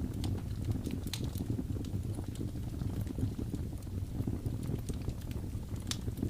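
Wood fire crackling: scattered sharp pops and snaps over a steady low rumble, with the loudest pops about a second in and near the end.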